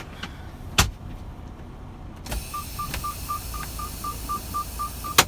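Inside a semi-truck cab: the engine rumbles low and steady under two sharp clicks, one near the start and one at the end. About halfway through, a click is followed by a steady hiss, and a cab warning beeper starts beeping rapidly, about four beeps a second.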